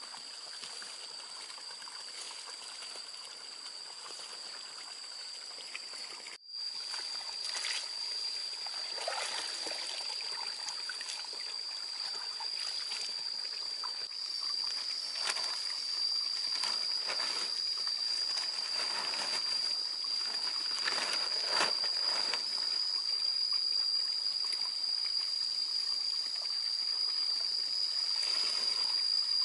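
Water pouring and splashing irregularly over a steady high-pitched drone, with a brief dropout about six seconds in.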